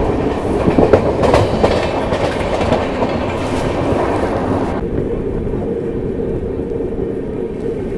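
Express train coach running at speed, heard from its open doorway: wheels clattering over the rails under loud rolling noise. About five seconds in the sound changes abruptly to a duller, steadier rumble with a faint steady hum as the train draws into a station.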